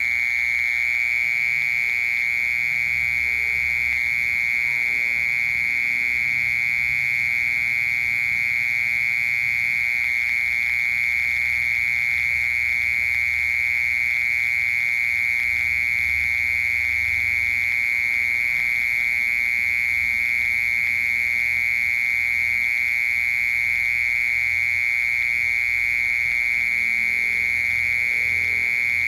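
Mole cricket singing: one continuous, unbroken high trill that holds the same pitch and loudness throughout.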